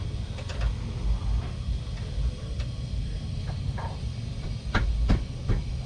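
Light clicks and taps of a small screwdriver working a weakened retaining clip into position, with two sharper knocks near the end.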